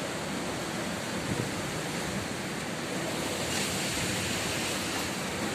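Ocean waves breaking on the shore, a steady wash of surf that swells slightly about three and a half seconds in, with some wind on the microphone.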